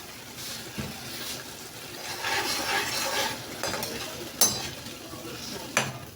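Blended pepper and onion sauce frying in a pot and being stirred, with a louder hissing stretch about two seconds in. Two sharp knocks follow near the end, the first the loudest sound.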